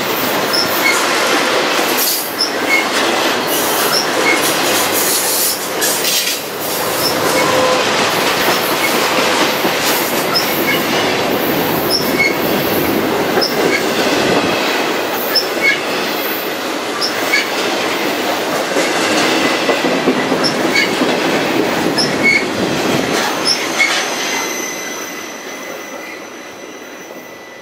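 Freight cars of a BNSF intermodal train, loaded with highway trailers, rolling past on steel rails: a steady wheel rumble and clatter with short high squeaks about every second and a half. It fades away as the last car passes near the end.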